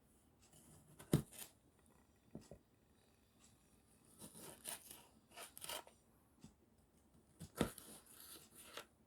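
Kitchen knife cutting tomatoes on a cutting board: two sharp knocks of the blade on the board, about a second in and near the end, with softer slicing and scraping between them.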